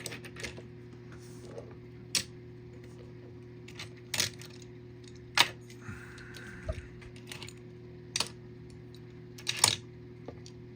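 Small die-cast metal toy cars clicking and clacking as they are handled and set down on a hard surface, one sharp click every second or two, over a steady low hum.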